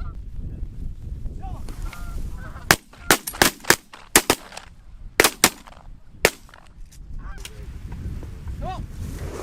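A ragged volley of about ten shotgun shots from several hunters, spread over roughly three and a half seconds. Goose honks come before and after the volley, over a low rumble of wind on the microphone.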